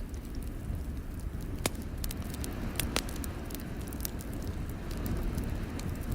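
Wood fire crackling in a fireplace: scattered sharp pops, a few louder ones about two and three seconds in, over a steady low rumble.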